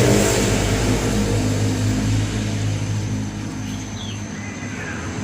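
A motor vehicle's engine running past and fading away over the first few seconds, then a few short bird chirps near the end.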